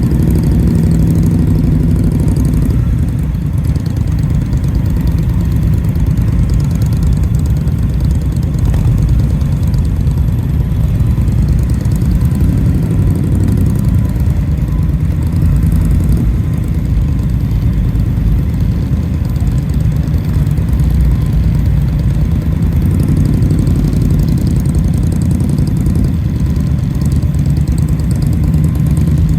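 Indian motorcycle V-twin engine running steadily, a low, even engine note with no sharp revs.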